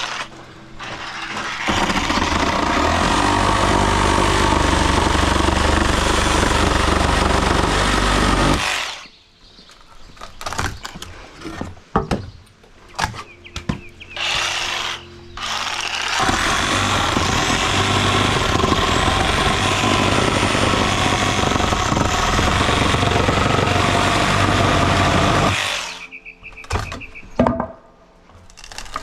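Sawzall reciprocating saw with an Ax demolition blade cutting through deck lumber, running flat out in two long cuts of about seven and nine seconds. Between the cuts come scattered knocks and clatter of wood.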